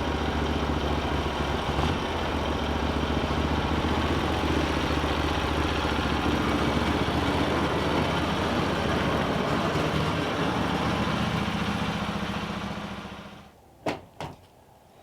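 Portable sawmill's engine running steadily, then winding down and stopping about thirteen seconds in, followed by two sharp knocks.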